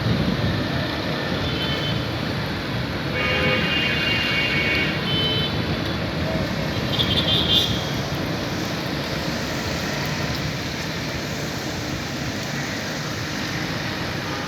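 Steady street traffic noise, with a vehicle horn sounding for about two seconds, starting about three seconds in, and a short high burst a few seconds later.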